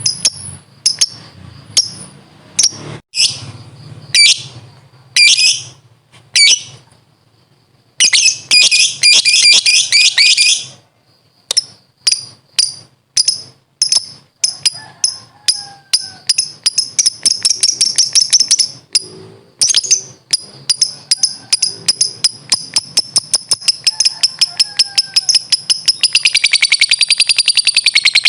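Lovebird chirping: sharp, separate high chirps, then a dense chattering burst about eight seconds in. After that the chirps come faster and faster until they run together into a long, rapid trill, the 'ngekek' call.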